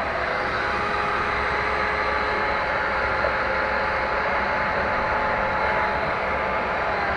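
1/5-scale radio-controlled motorcycle's motor whining at a steady pitch over a steady hiss of rain.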